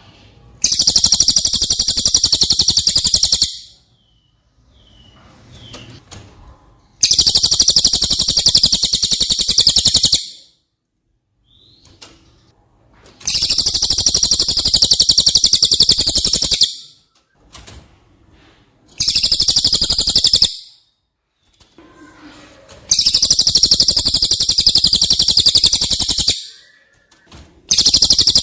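A cililin bird singing loud, fast buzzing trills in repeated bursts of two to three seconds, with short pauses and faint calls between them.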